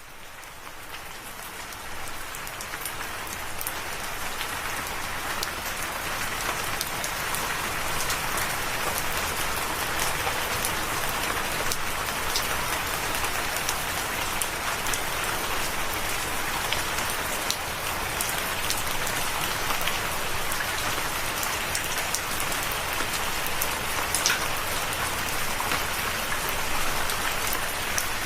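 Steady rain falling, with scattered sharp ticks of individual drops. It fades in from silence over the first few seconds, then holds steady.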